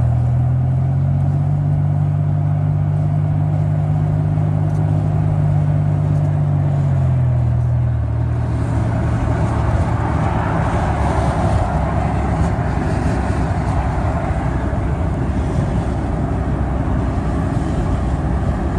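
Road vehicle engine running under steady road noise. Its low hum rises slightly at first, holds, then fades away about seven seconds in, leaving the road and tyre noise.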